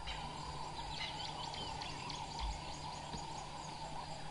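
Early-morning bush ambience: many birds chirping and calling in short, overlapping notes over a steady insect drone. Two brief low rumbles, one at the start and one about halfway through.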